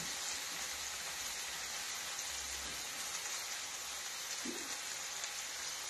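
Food sizzling steadily in hot oil, an even hiss of frying.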